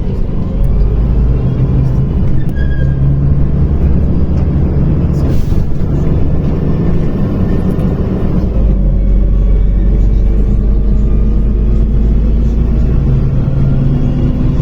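Inside a moving MAZ-105 city bus: a steady diesel engine and road rumble, growing heavier about halfway through, with music playing over it.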